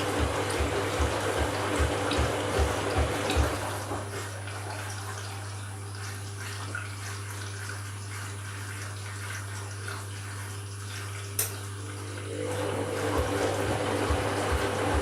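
Candy washing machine working through an empty bleaching cycle: water running through it over a steady low pump hum. Rhythmic low pulses come about three times a second at the start, fade out after a few seconds and return near the end, with a single click in between.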